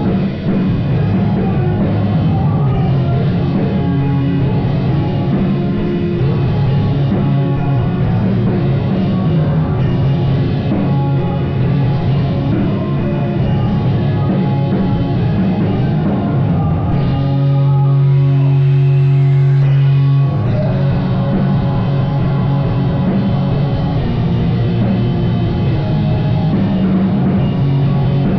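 Live rock band playing loud, full-band rock with a drum kit and guitar. About two-thirds of the way in, the drums drop out under a single held chord for about three seconds, then the whole band comes back in.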